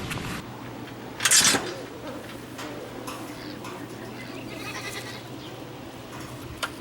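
A short, loud animal call about a second in, with a fainter call around the middle, over a steady low hum.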